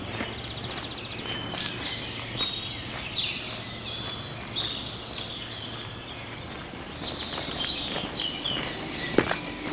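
Songbirds singing and chirping, many quick rising and falling notes, over a steady low outdoor hiss. A sharp click comes near the end.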